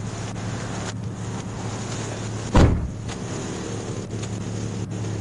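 Steady hum of an idling vehicle, with one loud thump about halfway through.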